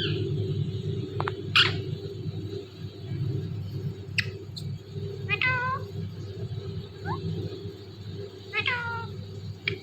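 Indian ringneck parrot imitating a cat's meow: two drawn-out, falling meows, about five and a half and nine seconds in, among short sharp squawks and chirps, over a steady low hum.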